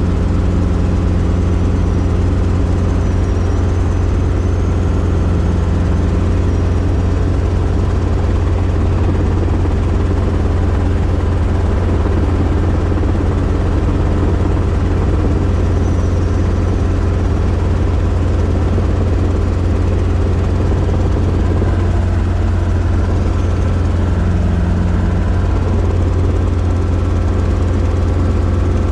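Robinson R22 helicopter's rotor and piston engine running steadily in flight, a loud, even drone with a heavy low thrum, heard from inside the small cabin.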